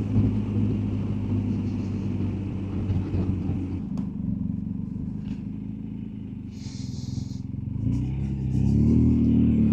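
BMW R1250GSA's boxer-twin engine running on the road. It eases off through the middle, then picks up with a rising engine note near the end.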